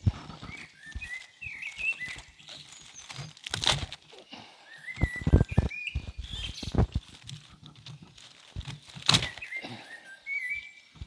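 Small birds chirping in short bursts, broken by three loud thuds about four, five and nine seconds in.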